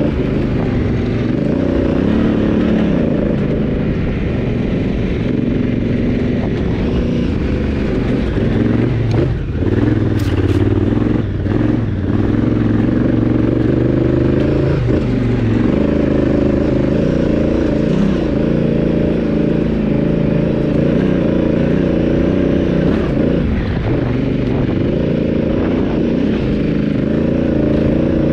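Honda Africa Twin DCT's parallel-twin engine pulling the bike up a rutted dirt trail, its revs rising and falling with the throttle. About ten seconds in the engine note drops briefly, with a few sharp ticks.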